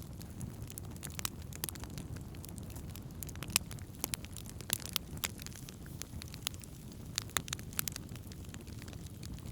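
Wood campfire burning, with irregular sharp pops and crackles over a steady low rumble of the flames.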